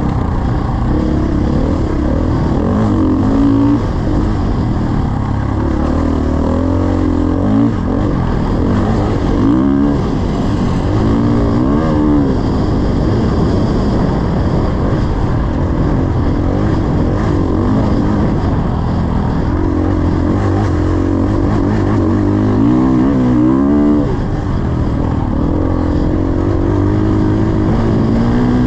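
Dirt bike engine running hard, its pitch climbing and dropping again and again as it is revved up through the gears and backed off.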